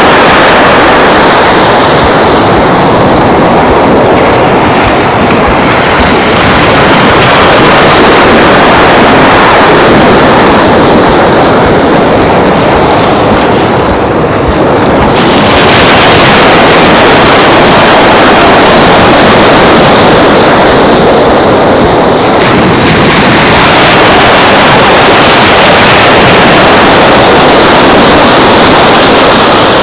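Surf washing onto a sandy beach, mixed with wind on the microphone: a loud, steady rush that swells and eases every several seconds.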